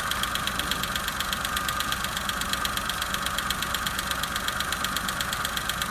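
Chevrolet Matiz 0.8-litre A08S3 three-cylinder petrol engine idling steadily, with an even, rapid ticking pulse that holds the same speed throughout.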